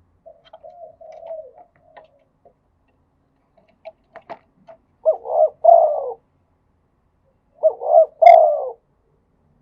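Spotted dove cooing: soft, quieter coos in the first two seconds, then two loud coo phrases, each of a short note followed by a longer rolling coo, a couple of seconds apart. A few faint clicks come just before the loud phrases.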